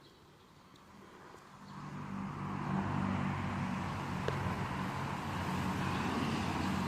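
A motor vehicle's engine grows louder over the first few seconds, then runs steadily.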